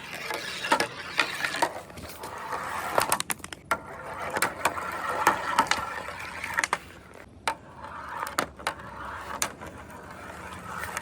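Marbles rolling along a marble run track: a rumbling roll that swells and fades in waves, with many sharp clicks and knocks as they hit the track.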